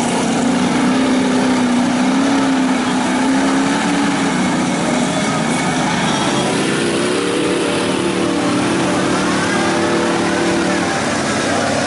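Big mud truck engine running loud, holding a steady pitch for a few seconds, then revving up about halfway through.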